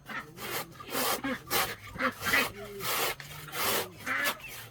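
Wood being worked by hand with rasping back-and-forth strokes, about two a second.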